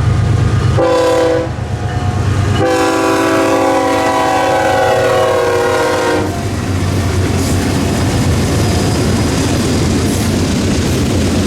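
Diesel locomotive's air horn sounding a short blast, then a long blast of about three and a half seconds, the closing part of a grade-crossing signal. The locomotive's engine rumbles underneath, and after the horn stops the train's wheels clatter over the rails as it passes.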